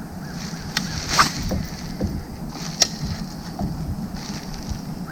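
Water splashing and sloshing around a kayak, with a steady low hum and a few sharp knocks, the loudest about a second in and again near three seconds.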